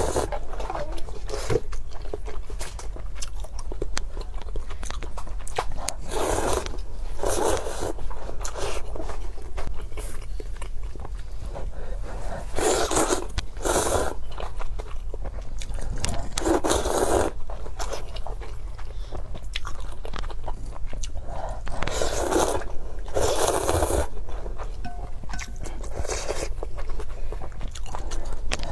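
Close-miked biting and chewing of crunchy fried food: loud crunching bites that come in pairs about a second apart every few seconds, with steady chewing clicks between them.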